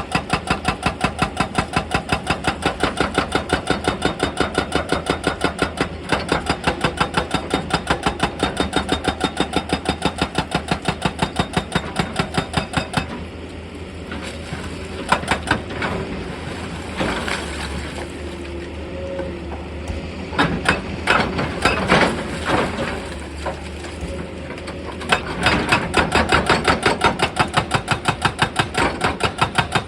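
Excavator's hydraulic breaker hammering rock in rapid, even blows, several a second. A little under halfway it stops, leaving the engine running with scattered knocks and clanks, then the hammering starts again near the end.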